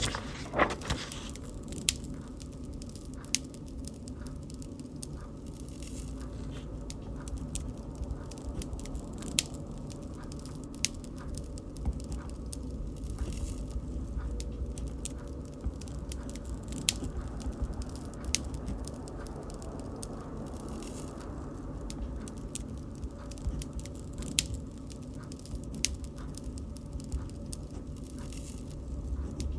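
Wood fire crackling: a steady low rumble of flames with scattered sharp pops and snaps, a few louder than the rest.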